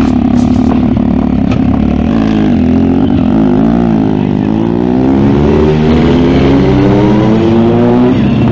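Superbike engine under way, loud and steady; the engine pitch dips briefly and then climbs steadily for several seconds as the bike accelerates.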